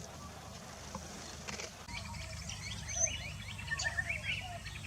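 Small birds chirping: many short, high, quick calls overlapping, getting busier about two seconds in, over a low steady background rumble.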